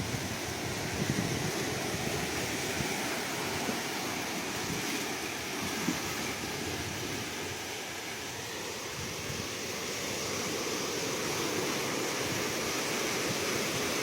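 Ocean surf washing in a continuous steady rush, easing a little about halfway through and building again.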